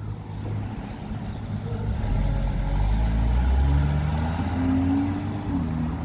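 A motor vehicle's engine gets louder from about two seconds in, its note rising in pitch, then eases off slightly near the end.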